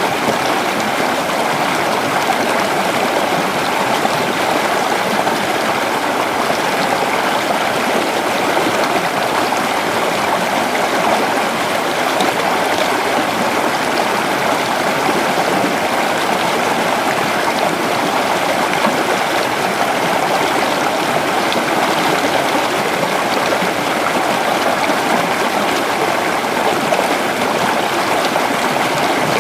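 Creek water flowing steadily over stones, a continuous babbling rush.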